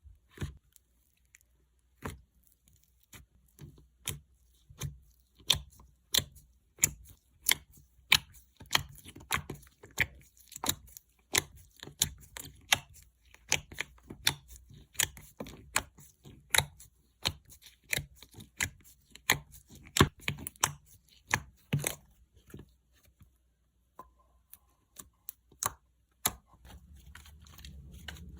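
Clay-mixed slime being squeezed and pressed by hand, giving sharp pops and clicks, a few at first, then about two a second, then thinning out near the end.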